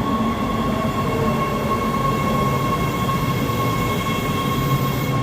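Subway train pulling into an underground station, a steady rumble with a steady high whine over it.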